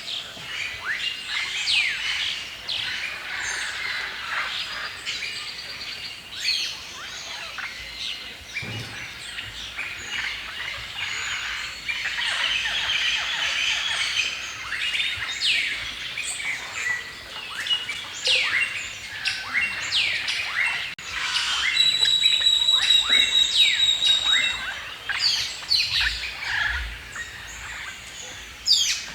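A chorus of several birds chirping and singing at once, with many quick sweeping notes overlapping. About 22 seconds in, one bird holds a high, steady whistled note for a couple of seconds.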